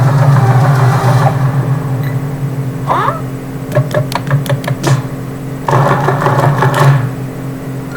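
Animated film trailer sound effects over a steady low hum: a rush of noise at the start, a short rising whoosh about three seconds in, a quick run of clicks and taps, then another rush of noise.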